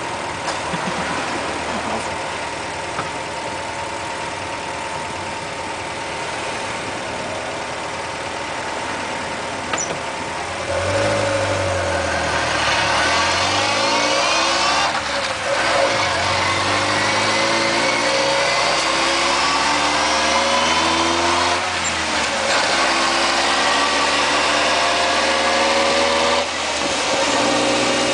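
Mitsubishi Jeep J58 idling steadily, then driven off and accelerating about 11 seconds in. Engine speed rises and falls several times, with a whine that rises and falls along with it, the transmission noise the owner presents as abnormal.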